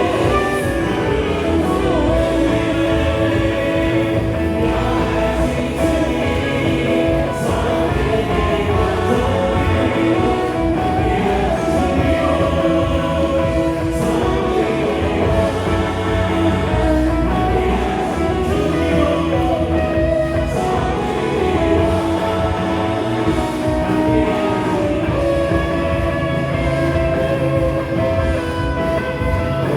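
Live worship band playing a song with drums, bass guitar, electric guitar and keyboard, with voices singing over it.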